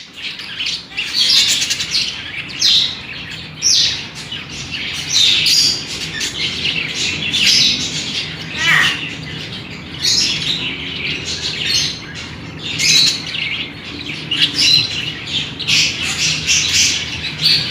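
Budgerigars squawking and chirping in quick bursts, typical of two-week-old chicks begging while a parent feeds them.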